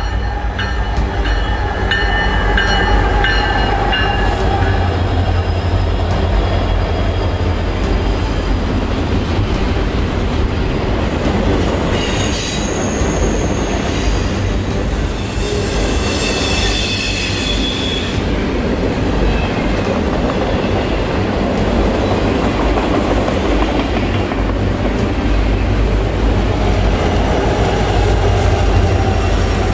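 Union Pacific double-stack container freight train passing close by. Diesel locomotives rumble at the head, then the loaded well cars roll past with steady wheel-on-rail noise and high wheel squeal around the middle. Another diesel locomotive rumbles past near the end.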